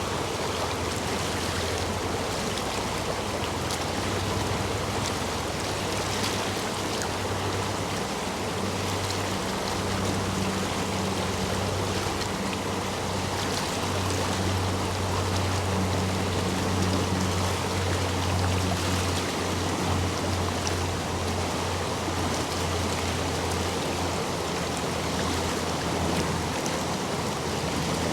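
Steady rushing of a stream flowing over and between stepping stones, the water running high after days of heavy rain. Soft background music with low sustained notes lies underneath.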